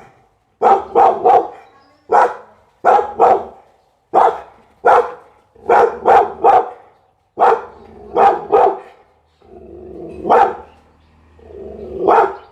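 A pit bull barking repeatedly in quick bursts of one to three barks. Near the end, two barks are each preceded by a longer, lower sound.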